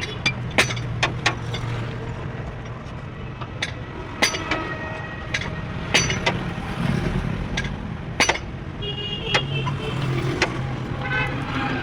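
A motor vehicle's engine running steadily, with frequent sharp clicks and knocks over it.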